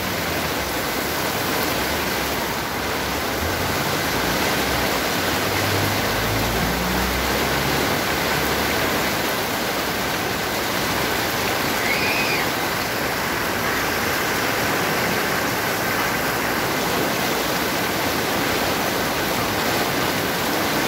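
Heavy rain pouring down steadily onto a flooded street, a dense, even hiss. A low rumble comes in about four seconds in and lasts a few seconds.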